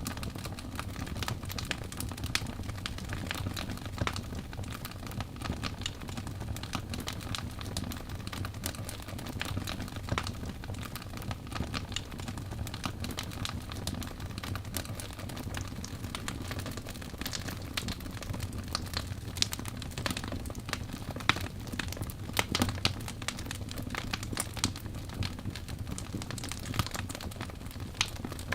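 Birch logs burning in a fireplace: a steady low rumble of flame under constant crackling, with scattered louder pops.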